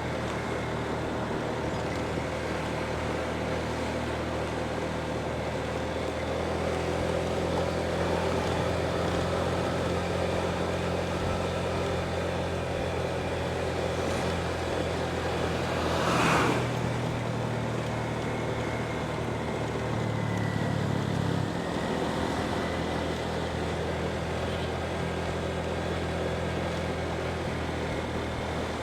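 Motorbike engine running steadily under way, with road and wind noise. About sixteen seconds in, a brief louder rush of noise rises and falls.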